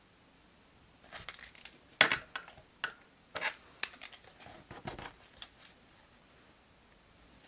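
Stationery handled on a desk during diary decorating: a run of small clicks, taps and light rustles lasting a few seconds, the sharpest tap about two seconds in.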